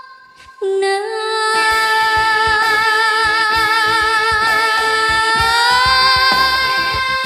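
Cambodian pop song: a female voice holds a long note with vibrato over a band, coming in loudly about half a second in after a short dip, with drums joining about a second later.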